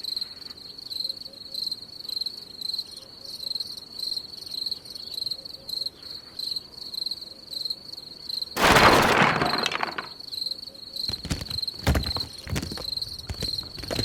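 Crickets chirping in a steady, evenly pulsing high trill. About eight and a half seconds in comes a loud bang that trails off over a second or so, followed by several sharp knocks.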